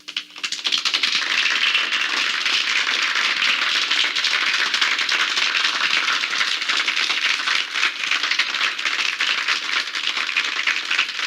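Canned applause: a crowd clapping, played as a sound effect. It starts suddenly just after the start and runs on steadily and densely.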